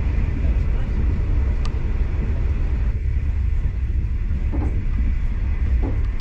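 V/Line passenger train running along the track: a steady low rumble of the carriage and wheels on rail, with one sharp click about a second and a half in.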